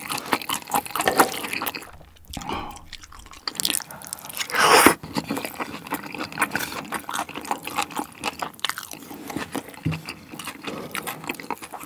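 Close-miked chewing of spicy pork bulgogi and rice: wet mouth clicks, smacking and crunching, with a brief louder rush of noise about five seconds in.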